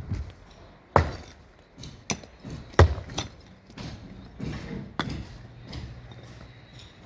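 Irregular sharp knocks and thuds from construction work, with two loud strikes about one second and nearly three seconds in and a few lighter ones after.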